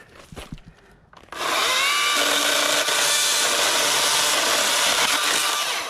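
Wild Badger 40-volt brushless battery chainsaw spinning up a little over a second in and cutting through a dead bush's stems for about four seconds, then stopping just before the end.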